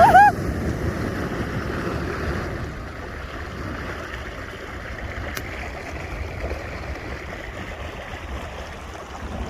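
Flash floodwater rushing along a street: a steady noisy rush with a low rumble, easing a little after the first couple of seconds. A short voice cries out right at the start.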